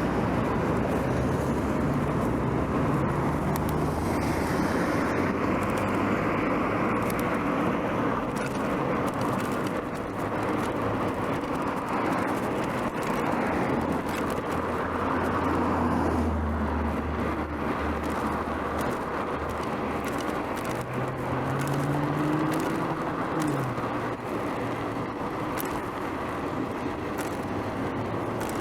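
Urban road traffic heard from a moving bicycle: cars driving past with engine hum and tyre noise over steady road and wind noise. About 21 seconds in, one vehicle's engine note rises, then falls away a few seconds later.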